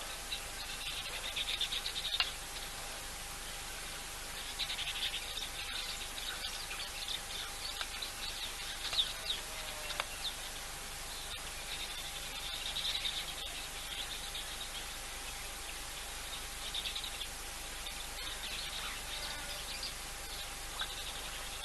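Wild bush ambience: small birds chirping and twittering in short high bursts every few seconds, over a steady hiss of insects and a faint unbroken tone.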